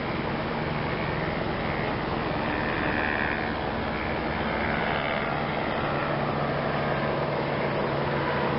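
A steady mechanical drone: an even rushing noise over a constant low hum, with no pauses.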